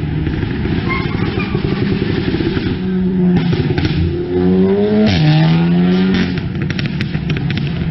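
Vehicle engine accelerating: its pitch climbs, drops sharply about five seconds in as it shifts gear, then holds steady. A quick run of clicks or knocks follows near the end.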